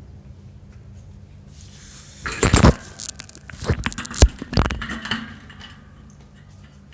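Strap and buckle handling noise from a cat harness being tightened: a few seconds of loud rustling and scraping with a sharp click in the middle.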